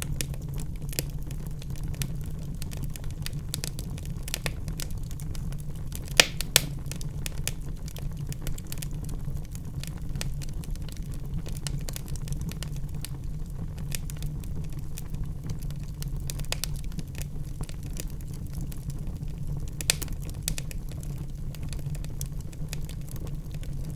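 Wood fire in a fireplace crackling: a steady low rumble of burning with frequent small pops, two louder pops about six seconds in and another about twenty seconds in.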